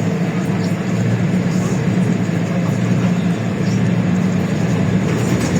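LiAZ-677M city bus's V8 petrol engine running under way, a steady loud hum with road and cabin noise, heard from inside the bus; its note drops a little about halfway through.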